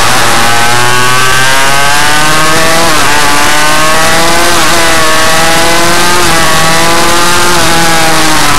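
Minimotard motorcycle engine under way, its pitch climbing under throttle and dropping sharply about three seconds in, and again near five and six seconds, as the rider changes gear or backs off. It runs loud throughout.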